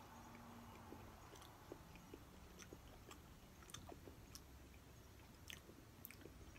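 A person chewing a mouthful of food, faint, with small irregular clicks from the mouth.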